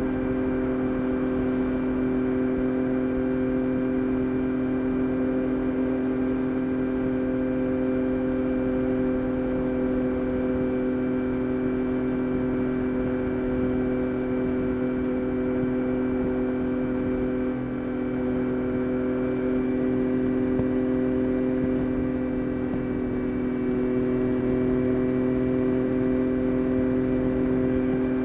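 Yamaha Tracer 9 GT+'s 890 cc CP3 three-cylinder engine running through a Roadsitalia titanium exhaust, held at a steady engine speed with an even, unchanging pitch. Its level dips slightly about two-thirds of the way through.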